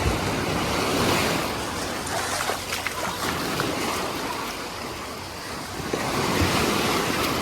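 Aegean Sea waves breaking and washing up on a beach, swelling about a second in and again near the end.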